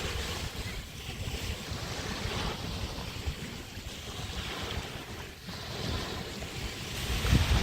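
Bay waves washing onto a beach, with wind rumbling on the microphone; the wash swells louder near the end.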